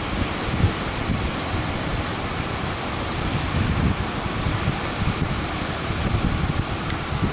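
Strong wind buffeting the microphone in gusts over the steady rush of breaking surf.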